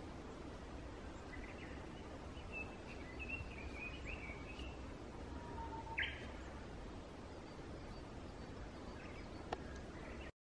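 Wild songbirds chirping over a steady low outdoor rumble, with a run of short calls between about one and five seconds in and one sharp call about six seconds in.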